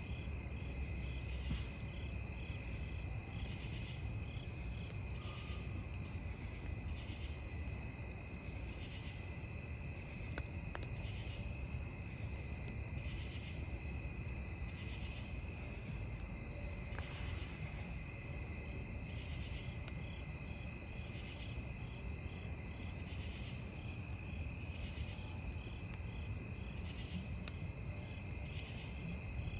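A dense chorus of crickets chirping steadily, over the low rumble of a wood campfire burning, with an occasional faint crackle.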